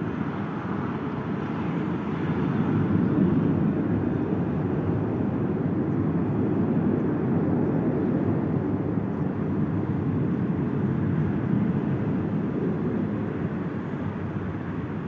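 Airplane engine noise: a steady low rumble that eases slightly near the end.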